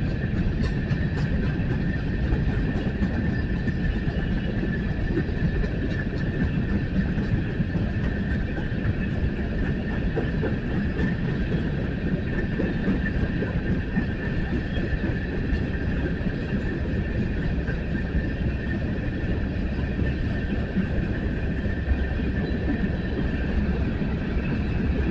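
Coal train's freight cars rolling past with a steady low rumble on the rails and a steady high ringing tone above it, with a few clicks near the start.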